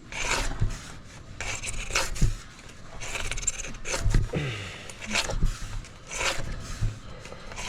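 Hand file rasping across the steel edge of a Vermeer 1600 woodchipper knife in repeated back-and-forth sharpening strokes, about one or two a second.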